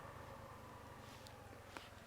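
Near silence: a faint low hum, with a single faint tick near the end.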